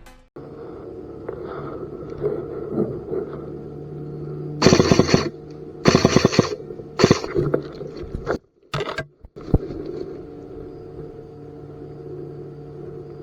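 Three short bursts of rapid full-auto airsoft gun fire, the first about five seconds in, over a steady low hum.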